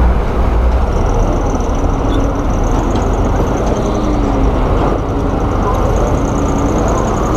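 Heavy diesel earthmoving machinery running under load: a steady, loud low engine rumble with the clatter of the machine. About a second in, a thin high pulsing tone joins it and carries on.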